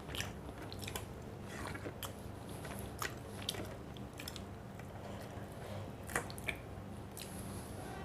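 A person eating close to the microphone: chewing, with irregular crisp crunches and mouth clicks.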